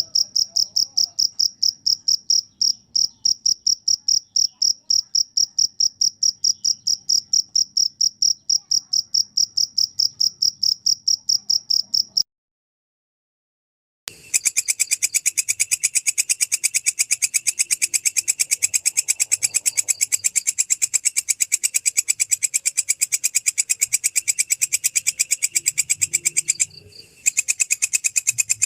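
A cricket chirping in rapid, regular pulses on one clear high note. After a second or two of silence, a different insect, a belalang kecek (katydid), takes over with a harsher, fuller pulsing call that breaks off for a moment near the end.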